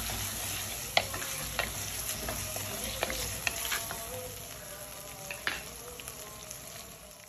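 Onion and potato pieces sizzling in coconut oil in a pan, stirred with a spoon that clicks and scrapes against the pan now and then; the sizzle slowly dies down.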